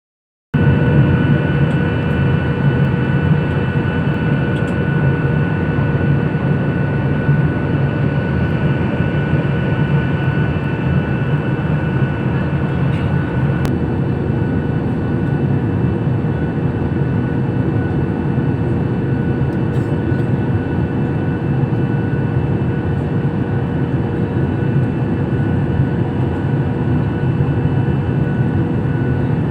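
Steady drone of a passenger aircraft in flight heard from inside the cabin: engine and airflow noise, heaviest in the low end, with a few steady whining tones over it.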